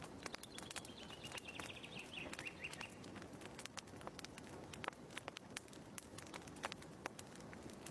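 Quiet wood fire crackling with irregular sharp pops. Over the first few seconds a bird gives a rapid trill that slides down in pitch.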